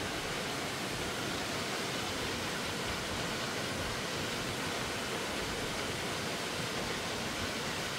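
Steady rush of water falling and cascading over rocks.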